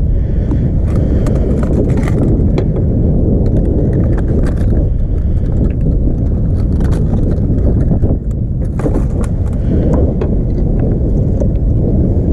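Steady low rumble of wind buffeting the microphone, with scattered small clicks and knocks of handling.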